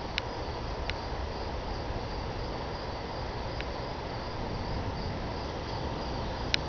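Crickets chirping in a steady pulsing trill over a low, even rumble, with a few faint clicks.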